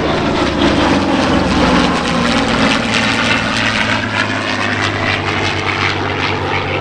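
Propeller-driven piston-engine aircraft flying past, the engine tone falling in pitch as it goes by.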